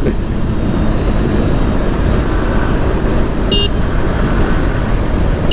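Motorcycle riding noise dominated by the exhaust of a two-stroke Suzuki RM250 dirt bike running steadily, with a short high beep about three and a half seconds in and another at the very end.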